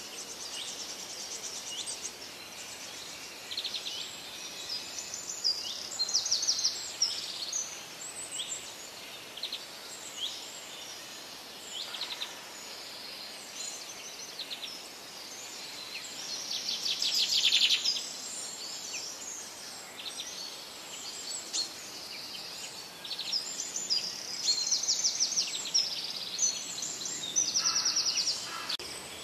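Several small birds chirping and singing in overlapping calls, with rapid trills, over a faint steady hiss. The loudest fast trill comes a little past the middle.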